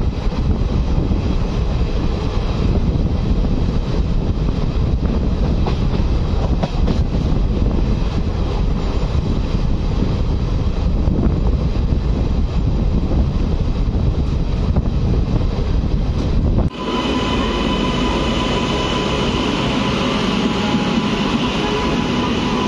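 Indian Railways passenger train running, heard from an open coach door: a steady heavy rumble and rattle of wheels on rails. About 17 s in it cuts to coaches rolling past a station platform, with a steady high whine over a lighter rumble.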